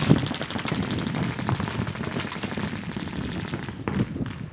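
Airsoft guns firing on full auto, a fast run of sharp snapping shots.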